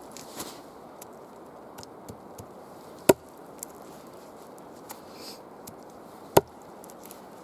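Two sharp chopping strikes on wood, about three seconds apart, over a steady low hiss with a few faint small clicks.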